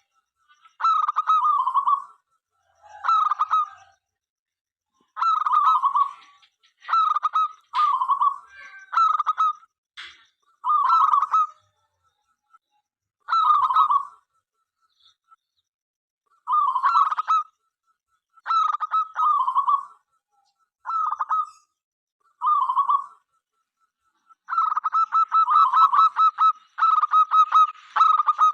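Zebra dove (perkutut) cooing: about a dozen short rattling coos, each under a second to about a second long with brief pauses between, then a longer, faster run of notes near the end.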